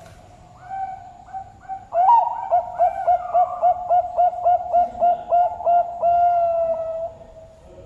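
Zebra dove (Bangkok perkutut) singing: a few soft notes, then a loud run of short repeated coos at about four a second, closing on one long held note.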